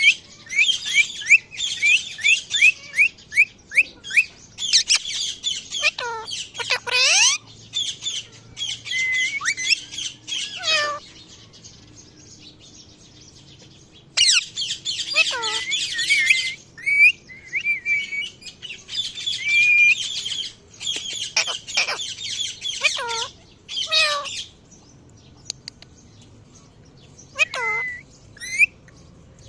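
A parrot chirping and squawking in bouts of rapid, sharply falling calls, with short pauses between the bouts.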